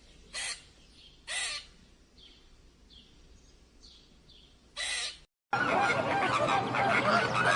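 A bird calling: three loud calls, the first two about a second apart, with fainter higher calls in between. After a brief break about five seconds in, a louder, dense chorus of many birds calling starts up, typical of a honking flock of geese.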